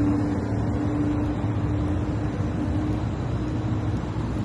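Semi-truck's diesel engine running steadily, a constant low drone with a held hum over it.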